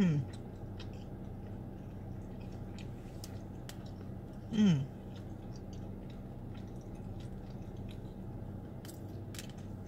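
Close-up soft chewing and small wet mouth clicks of a person eating noodles, with one short falling "mmm" of enjoyment about four and a half seconds in, over a steady low hum.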